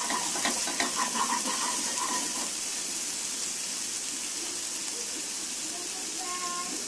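Ground spice paste sizzling in hot oil in a frying pan, a steady hiss as it is sautéed until fragrant. A wooden spatula clicks and scrapes against the pan for the first couple of seconds while it is stirred.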